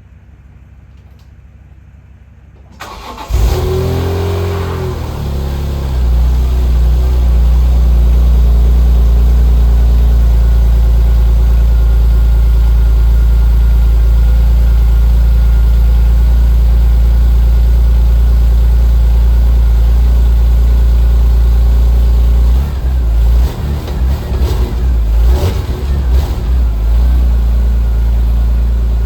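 BMW E46 M3's S54 inline-six on its stock exhaust starting from cold about three seconds in: it catches with a brief flare of revs, then settles into a steady, loud high cold idle. For a few seconds near the end the low rumble turns uneven.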